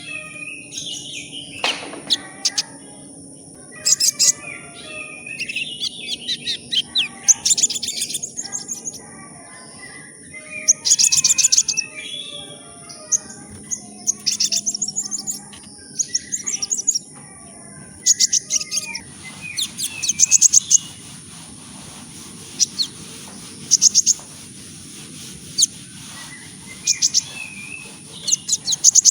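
A songbird singing in short, varied phrases of whistled notes and fast high trills, with brief pauses between them, over a steady faint high hiss.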